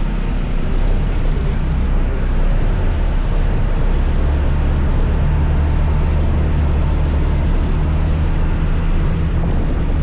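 Scooter engine running at a steady speed under road and wind noise while riding, its low hum holding an even pitch through most of the stretch.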